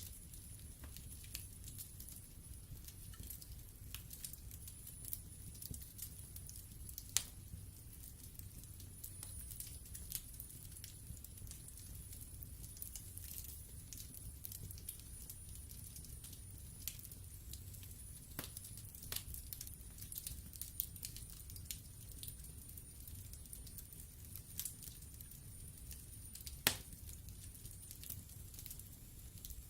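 Wood fire burning in a fireplace, logs crackling with frequent small irregular pops over a low rumble of the flames. Two louder sharp pops stand out, one about a quarter of the way in and one near the end.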